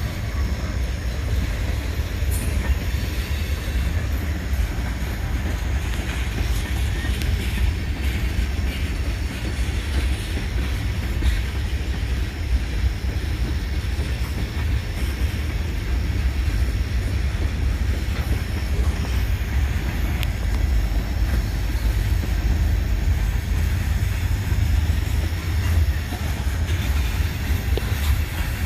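Freight train cars rolling past, a steady heavy low rumble of steel wheels on rail.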